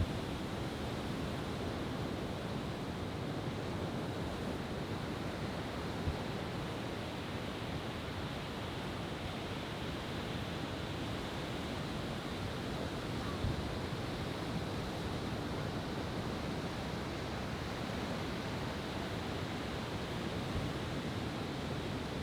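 Steady wash of ocean surf on the shore, with three faint short thumps, about six to seven seconds apart.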